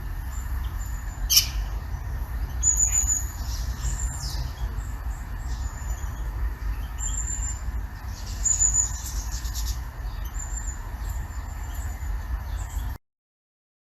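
Small birds chirping in short, high notes repeated every second or so, over a steady low rumble, with a sharp click about a second and a half in. The sound cuts off suddenly shortly before the end.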